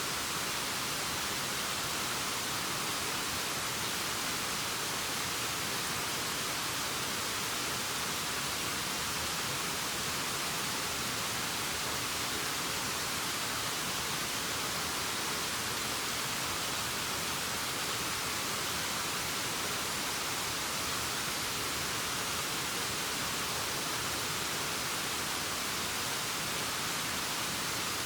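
Steady rushing waterfall noise: an even hiss, strongest in the high range, with no change in level.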